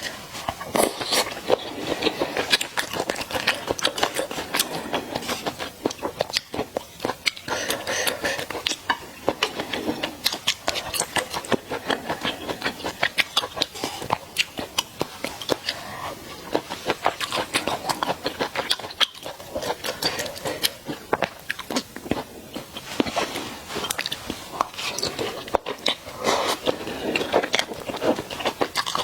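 A person chewing and crunching mala xiang guo and malatang close to the microphone, with a dense run of small sharp, wet clicks and crunches.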